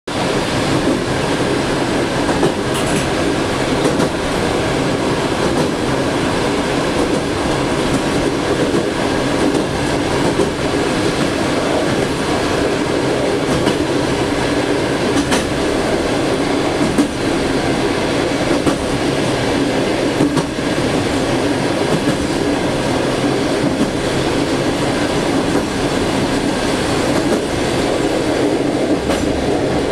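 Running noise of a moving passenger train, heard inside the rear vestibule of its last car. A steady, loud rumble and rattle of wheels on rails, with a few scattered sharper clicks.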